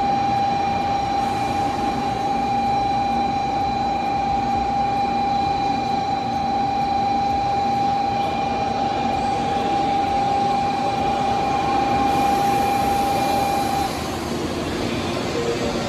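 Train at a station platform: steady rail and machinery noise with a constant high-pitched tone that stops abruptly about fourteen seconds in.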